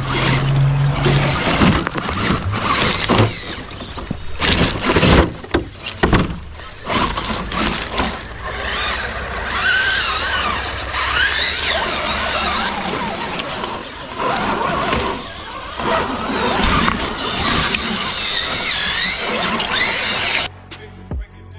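Electric RC truck being driven: its motor whines, rising and falling in pitch with the throttle, and sharp knocks of the truck hitting the ground come thick in the first few seconds. The sound stops abruptly shortly before the end.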